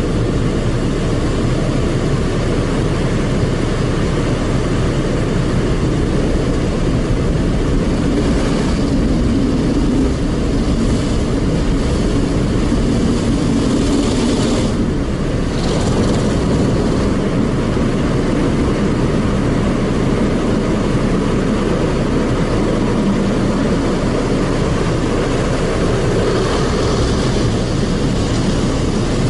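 Automatic car wash machine working over the car, heard from inside the cabin: a steady, loud noise with short swells of higher hiss about a third of the way in, around the middle and near the end.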